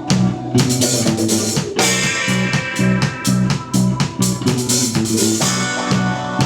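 Live instrumental post-rock played by a trio of electric bass, electric guitar and drum kit: a repeating bass figure under steady drum hits and sustained guitar chords.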